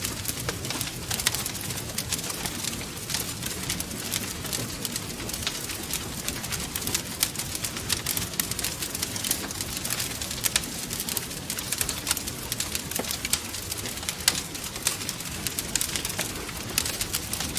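Wood fire crackling, with frequent sharp pops and snaps over a low steady rush of burning logs.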